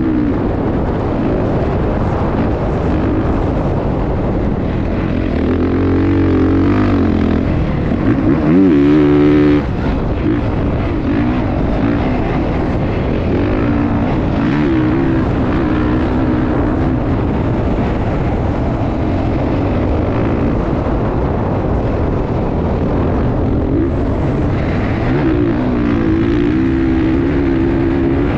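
Motocross dirt bike engines running and revving, the pitch rising and falling several times; the loudest rev comes about nine seconds in.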